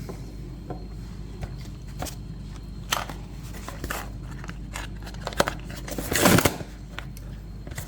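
Handling of small vinyl toy figures and their packaging: scattered light clicks and taps, with one louder rustling scrape about six seconds in.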